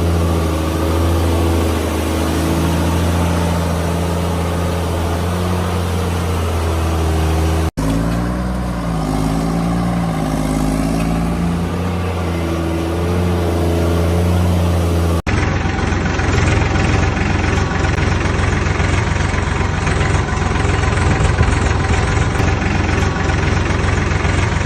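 Heavy vehicle engines running, with the pitch rising and falling as they are revved, in three edited segments that cut abruptly at about 8 seconds and 15 seconds in.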